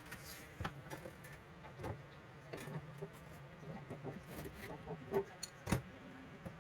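Scattered small clicks and taps of metal plumbing fittings and hoses being handled, two sharper knocks near the end, over a low steady hum.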